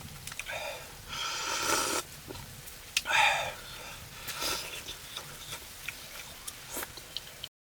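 Eating close to the microphone: two drawn-out slurping sounds and small mouth clicks, then the sound cuts off abruptly near the end.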